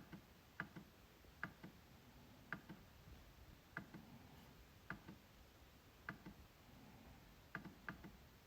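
MacBook trackpad clicking: sharp single clicks about once a second at uneven intervals, each pressed click followed closely by a fainter release click. Near the end come two clicks in quick succession.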